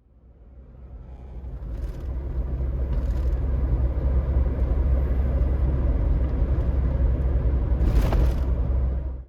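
Low, steady engine rumble fading in over the first two seconds, with brief hissing swells about two, three and eight seconds in.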